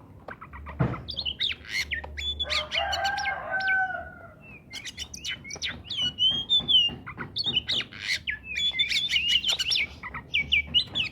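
Oriental magpie-robin singing vigorously: a fast, varied run of sharp whistles and chirps. About two seconds in a lower, drawn-out call runs underneath for about two seconds, and there is a single knock near the start.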